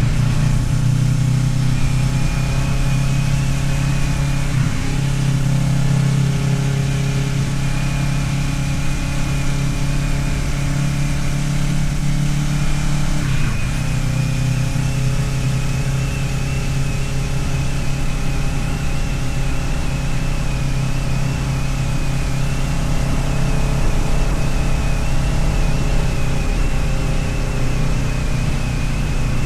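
Kawasaki Ninja 650R's parallel-twin engine running steadily under way, with a faint high whine above it. The engine pitch dips briefly about thirteen seconds in, then settles again.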